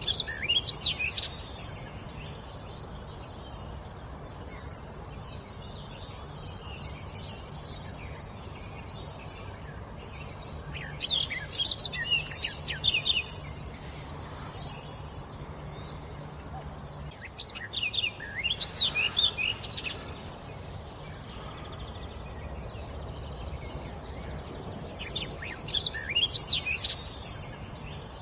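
A songbird singing short phrases of quick rising and falling notes, four phrases spaced several seconds apart, over a faint steady low hum.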